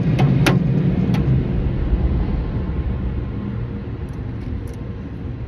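Automatic car wash machinery heard from inside the car's cabin: a steady low rumble that fades as the car moves along the track, with a few sharp clicks in the first second or so.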